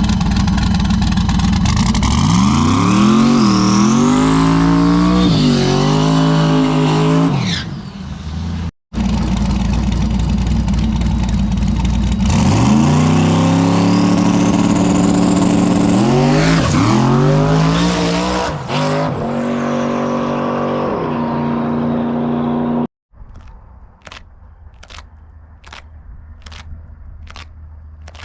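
Turbocharged drag car launching and accelerating hard at full throttle, engine revs climbing and dropping at each gear shift, heard on two passes cut together. Near the end the engine sound stops and a quieter stretch follows with a steady series of sharp clicks.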